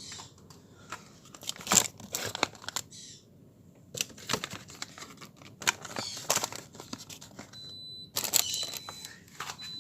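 Plastic food packaging crinkling and rustling as grocery items are handled in a fridge, with irregular clicks and knocks.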